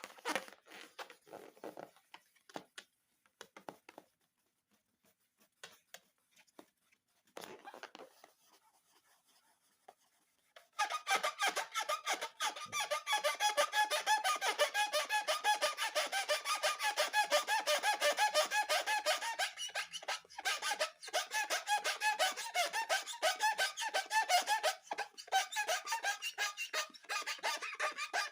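A few faint clicks and rustles, then about eleven seconds in a long run of rapid, closely repeated squeaks from rubber balloons being rubbed and handled.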